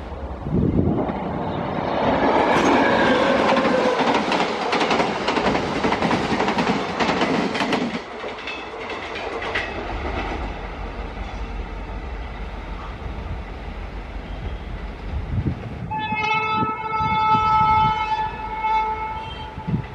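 Freight train of wagons carrying liquid-oxygen tank containers, hauled by a WAP-7 electric locomotive, passing close by: wheels clatter over rail joints and points, loudest for the first eight seconds, then a lower rumble as the train moves away. Near the end a train horn sounds one long steady blast of about three seconds.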